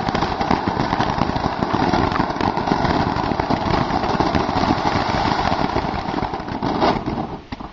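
A backyard firework going off with a steady, dense, fast crackle, then cutting off suddenly about seven and a half seconds in as it burns out.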